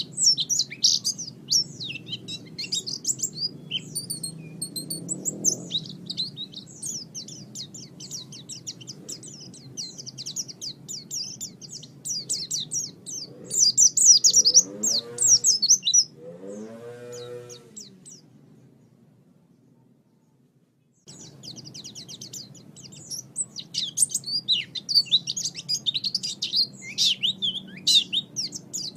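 Small songbirds chirping and twittering in a dense, rapid, high-pitched stream, with a few lower arching calls about halfway through. The song stops briefly, fading almost to silence, then starts up again.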